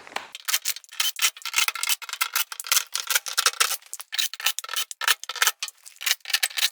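Fast, irregular scratchy clicks and rubbing of a screwdriver turning Phillips-head screws out of a clothes dryer's sheet-metal back panel.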